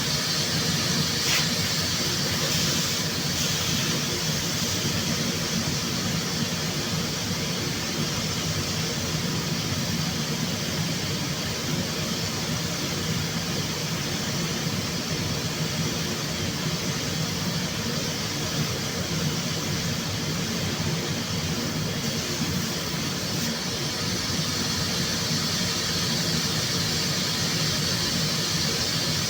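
Steady body-shop machinery noise: an even hiss with a low hum underneath, running without a break.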